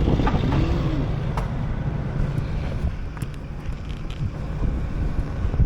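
Semi truck's diesel engine running with a steady low rumble, a brief rising-and-falling tone about half a second in.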